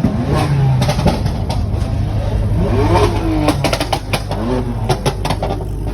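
Car engines revving over a steady low engine rumble, the pitch rising and falling twice, with a quick run of sharp cracks in the second half.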